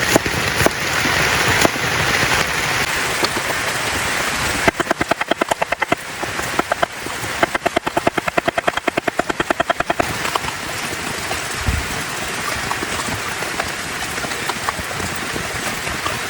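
Heavy rain falls steadily, and from about five to ten seconds in there are two runs of rapid, evenly spaced knife chops on a cutting board, the sound of vegetables being chopped.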